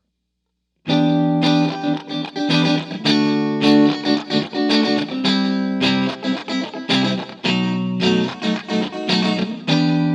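Electric guitar played through the XVive MaxVerb reverb pedal, starting about a second in after silence, with a quick run of picked chords whose notes ring on into each other.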